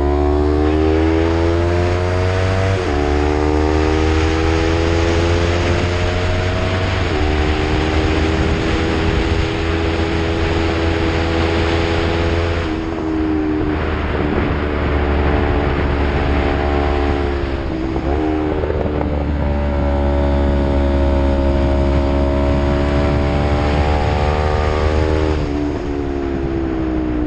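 Yamaha MT-03 with an Arrow full-system exhaust pulling hard uphill, its engine note climbing and then dropping back at several gear changes, over a steady rush of wind noise.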